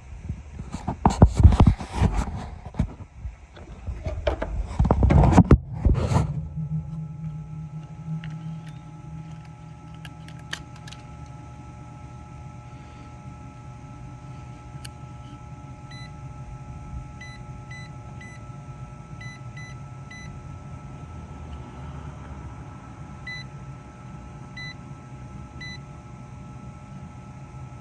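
Knocking and clattering of hands and tools on the heat pump's outdoor unit for about the first six seconds. Then a steady low hum with a faint high whine, and a series of short electronic beeps in the second half, typical of a meter taking readings on the fan and compressor.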